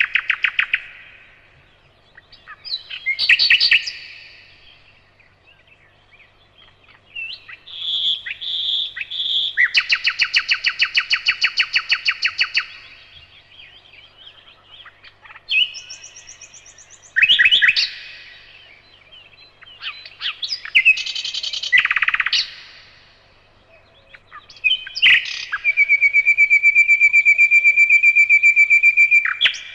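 Nightingale singing: separate phrases with short pauses between, several built from fast runs of repeated notes, and a long rapid trill near the end.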